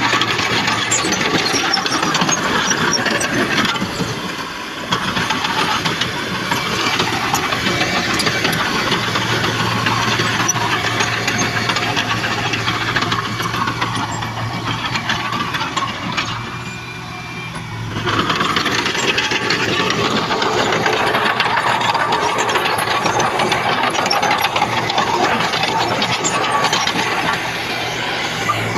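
Heavy diesel earthmoving machinery running, a steady engine drone with plenty of mechanical clatter. The sound drops off briefly about sixteen seconds in and comes back up near eighteen seconds.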